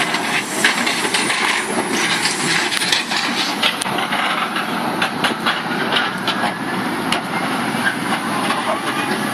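Demolition excavator working on a concrete bridge: a steady mechanical rumble with irregular crunching, knocks and clatter of breaking concrete and debris.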